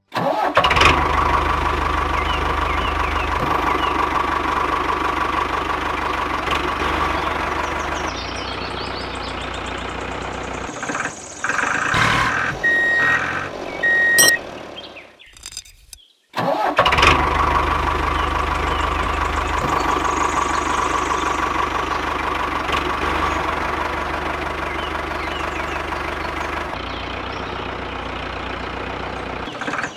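Tractor engine sound effect: an engine starting and then running steadily. About halfway through it breaks off with two short high beeps and a moment of silence, then starts and runs steadily again.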